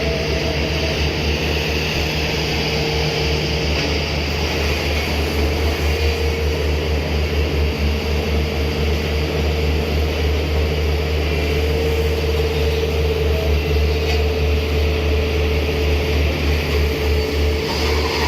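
A motor running steadily: a continuous low drone with a steady hum above it.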